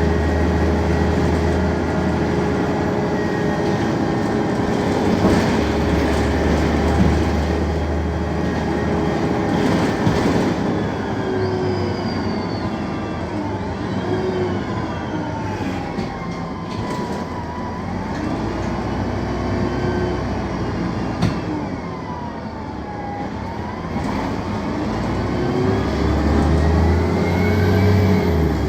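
Mercedes-Benz OM 906 LA six-cylinder turbo diesel of a BredaMenarini M 240 LU city bus running, heard on board, with its Voith automatic drivetrain. A steady low hum runs throughout, and from about ten seconds in whining tones rise and fall in pitch as the engine and gearbox speed up and slow down.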